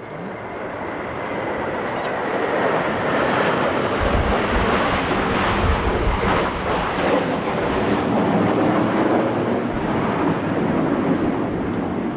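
Kawasaki T-4 jets of the Blue Impulse team making a pass, their twin turbofans a broad roar that builds over the first few seconds, peaks around the middle and slowly fades.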